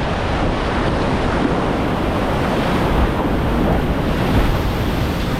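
Whitewater creek rapids rushing steadily, a loud even water noise with wind buffeting the microphone.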